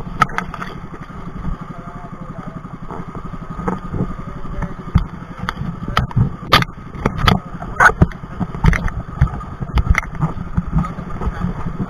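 Outrigger pumpboat's engine running steadily under way. Frequent sharp slaps and knocks ride over it, more of them from about four seconds in, as the hull meets the chop.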